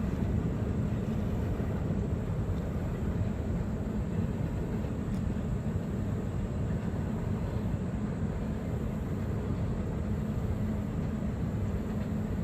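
Waterfall: a steady rush of falling water, strongest in the low end.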